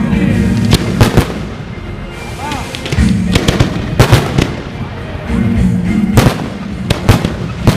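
Fireworks going off in a string of sharp bangs, some in quick pairs, over loud music.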